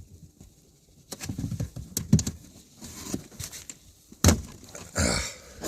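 Plastic lower dashboard trim panel being tugged and pried against its push-tree retaining clips: irregular clicks, knocks and rattles of hard plastic, the loudest about two seconds in and again a little past four seconds.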